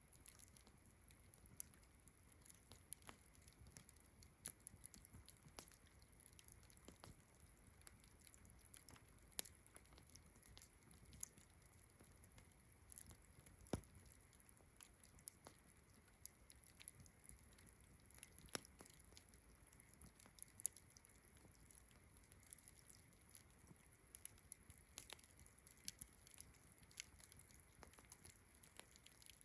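Campfire crackling, with irregular sharp pops and snaps, over a steady high chirring of distant crickets.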